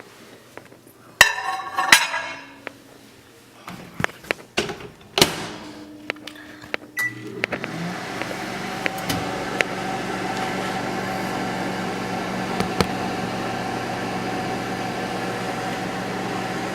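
Clatter and knocks of a microwave oven's door and a plate being handled, a short beep about seven seconds in, then the microwave running with a steady hum while it heats a bar of soap.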